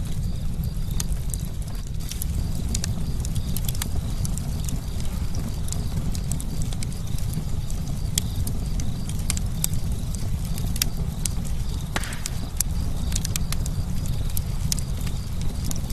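Campfire burning: a steady low rumble with frequent sharp crackles and snaps, and one louder pop about twelve seconds in.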